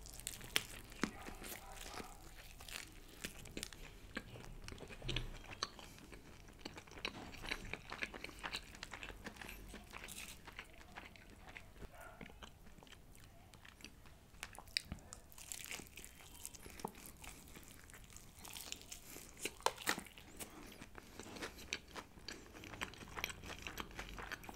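Biting and chewing of KFC Hot & Crispy fried chicken, the crisp breaded coating crunching in many small crackles and clicks.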